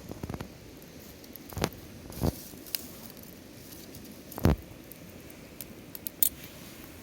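Wood campfire burning with a low steady hiss, crackling with irregular sharp pops every second or two; the loudest pop comes about four and a half seconds in.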